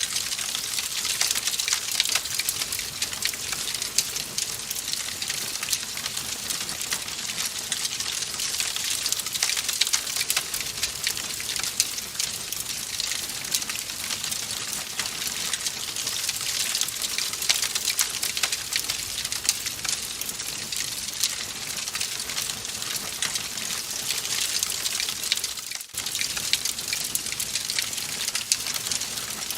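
Wood fire crackling steadily: a dense hiss full of small pops and snaps, with a brief drop in level a little before the end.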